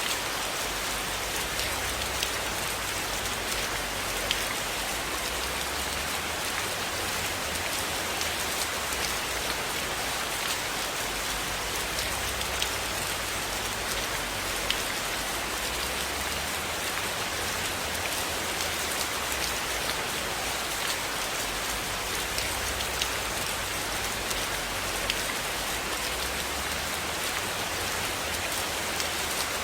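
Steady rain falling on a cabin, an even dense hiss with scattered sharp ticks of individual drops.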